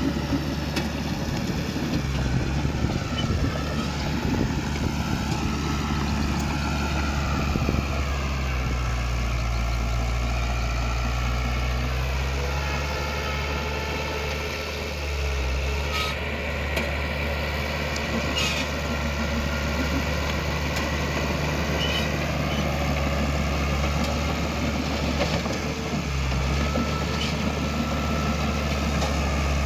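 Heavy diesel earthmoving machinery running, the engine note shifting up and down several times as it works, with a few short knocks partway through.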